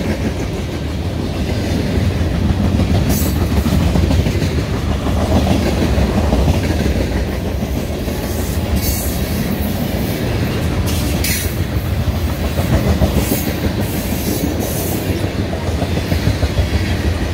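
Freight cars rolling past close by: a steady rumble of steel wheels on rail with the clickety-clack of wheel sets over rail joints. Brief high-pitched wheel screeches come and go several times.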